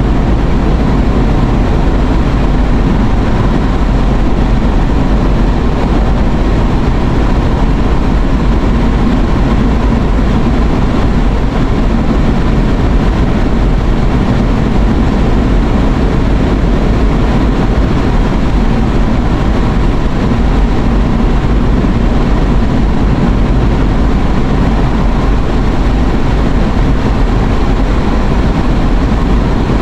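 Steady road and engine noise of a moving car heard from inside the cabin, a loud, even rumble with hiss that does not change.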